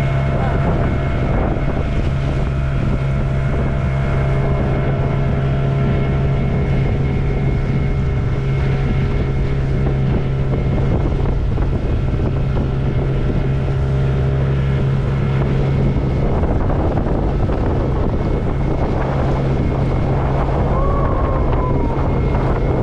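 Motorboat engine running at a steady speed, a constant low drone with water noise underneath.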